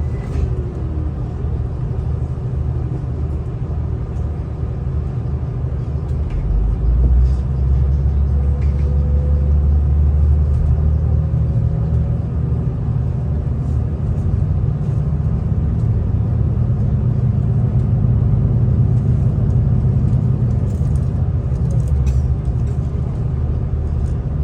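Steady low rumble of a V/Line diesel train heard from inside the carriage, growing louder about seven seconds in.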